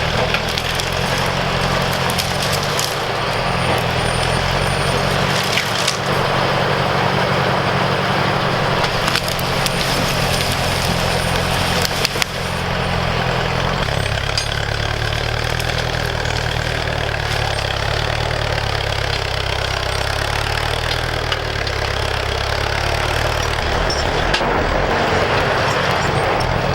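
Ford 641 Workmaster tractor engine running steadily, its note shifting about halfway through, with scattered sharp cracks and snaps of wood.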